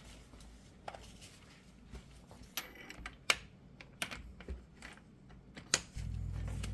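Scattered light metallic clicks and taps as tools and axle parts are handled and a U-joint press is positioned, then a steady low hum starts about six seconds in.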